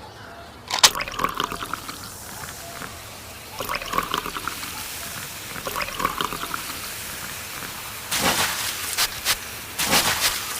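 Water pouring and splashing, with scattered small clicks and knocks, growing louder in bursts near the end.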